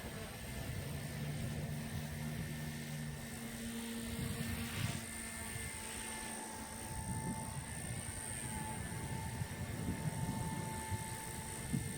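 Align T-Rex 150X micro electric RC helicopter in flight: its motors and rotors give a steady high whine, with a lower tone that wavers in pitch as it manoeuvres. Wind gusts buffet the microphone with a low rumble that swells and fades.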